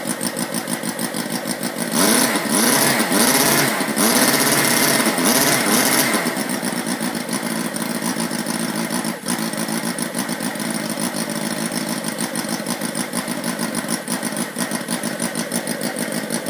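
Sterling Kits 32cc inline four-cylinder model engine running steadily. Between about two and six seconds in it grows louder and hissier, its pitch swinging up and down.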